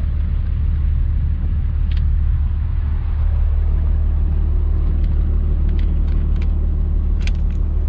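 International S1900 dump truck's DT466 inline-six diesel engine running steadily with a deep drone, with a few light clicks on top.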